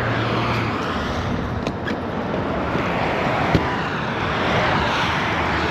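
Motorcycle cruising at highway speed: steady wind rush over a helmet-mounted microphone, with the engine's low drone underneath.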